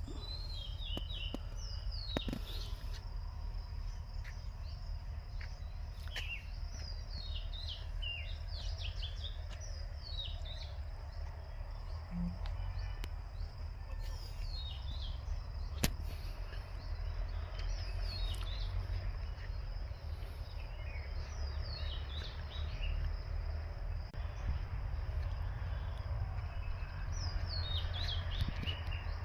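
A bird calling in short bursts of quick chirps that fall in pitch, repeated every few seconds. Underneath are a steady high buzz and a constant low rumble.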